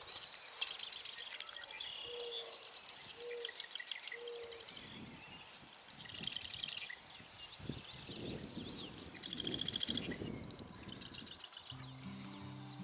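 Sedge wren singing: a string of high, fast, dry chattering trills, repeated in several bouts a second or two apart. Music comes in near the end.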